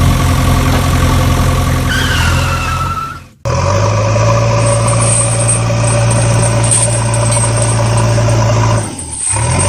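Engine idling, steady and loud, breaking off abruptly about three seconds in and starting again at once, with a short dip near the end. A brief falling tone sounds about two seconds in.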